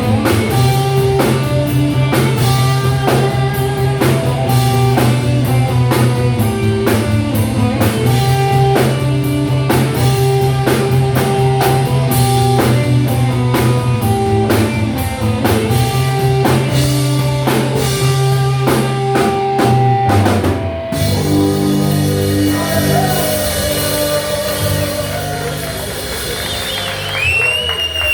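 Live rock band playing a song, drum kit keeping a steady beat under bass and guitar. About twenty seconds in the drumming stops and the song winds down on held, ringing chords, with a sliding high tone near the end.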